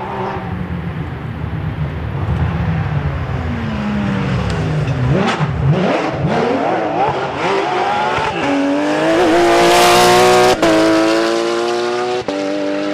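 Rally car engine at full throttle. The pitch swings down and up as it comes through, then climbs steadily under hard acceleration, with a couple of brief breaks for gear changes.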